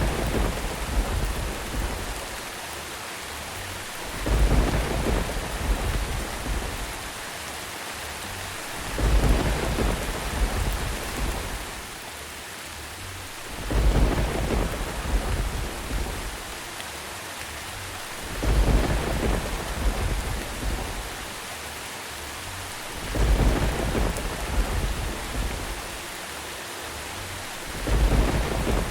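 Steady rain falling, with a low rumble of thunder swelling and fading about every five seconds at even intervals.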